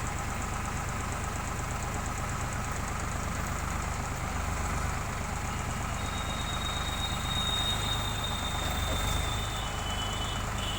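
Eicher 557 tractor's diesel engine running steadily. A thin, steady high whine joins about six seconds in and drops a little in pitch near the end.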